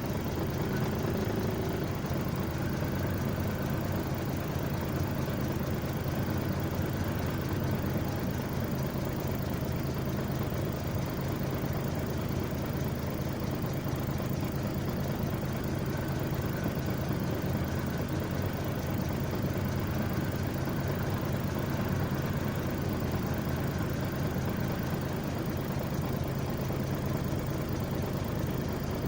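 A heavy engine running steadily at idle, a low, even hum that does not change speed.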